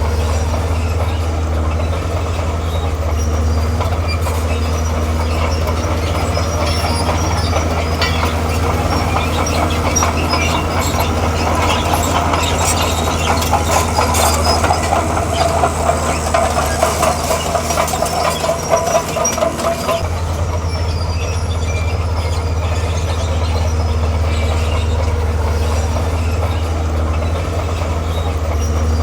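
Komatsu D41P bulldozer's diesel engine running steadily while its steel tracks clank and squeak, the track squeal growing louder and more rhythmic through the middle of the stretch before settling back.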